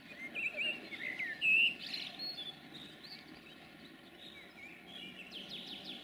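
Small songbirds chirping in quick, varied calls, the loudest about a second and a half in and more near the end, over a steady low background rumble.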